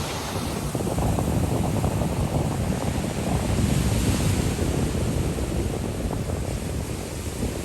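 Surf washing onto the beach, with wind buffeting the microphone; the wash swells from about a second in and eases off near the end.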